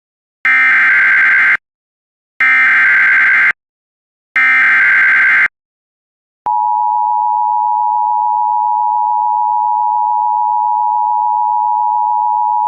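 NOAA Weather Radio alert signal for a severe thunderstorm warning: three harsh one-second bursts of SAME digital header data, a second apart, then a steady, loud attention tone that starts about six and a half seconds in and holds.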